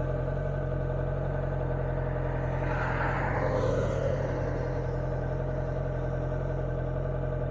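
Honda CB650F's inline-four engine running steadily, with a brief swell of rushing noise about three seconds in.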